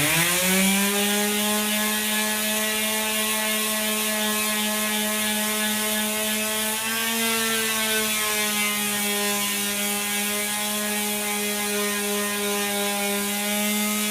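Electric power sander fitted with 80-grit paper spinning up at the start, then running at a steady pitch as it sands, with a slight change in pitch partway through as it takes load.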